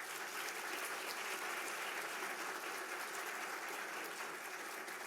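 Audience applauding: steady clapping from many hands at the close of a piano recital piece.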